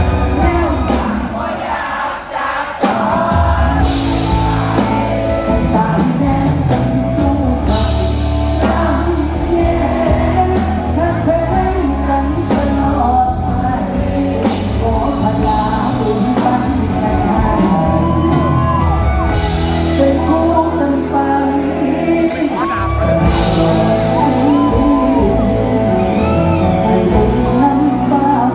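Live Thai luk thung / mor lam band music with singing and shouted whoops over it. A heavy bass beat comes in about three seconds in.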